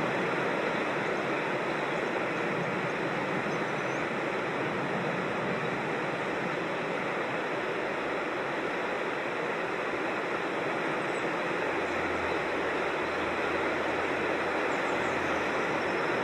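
Steady rush of creek water or a small waterfall, an even unbroken noise. A few faint high chirps come through it.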